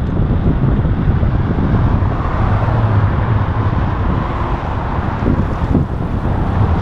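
Wind buffeting the microphone of a moving bike-mounted camera, a steady low rumble, mixed with the noise of road traffic.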